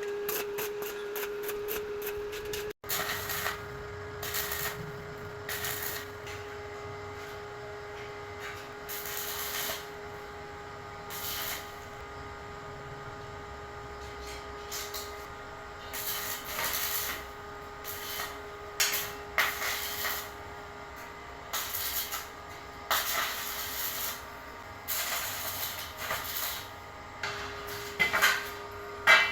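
Metalworking on steel window grills: an irregular series of short hissing, crackling bursts and knocks, over a steady tone.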